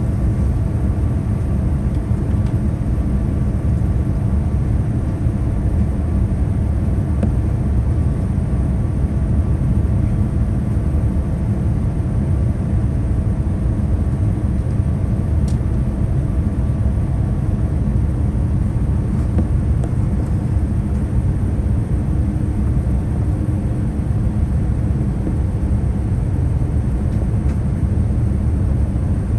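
Steady low rumble of engine and airflow noise inside the cabin of a Boeing 787-9 airliner, with a faint whine that fades out a little past halfway.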